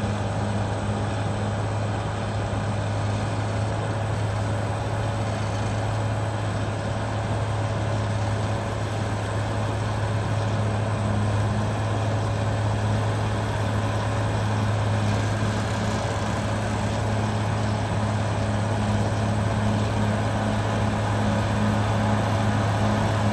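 Caterpillar D6R XL bulldozer's diesel engine running steadily, with a constant deep hum.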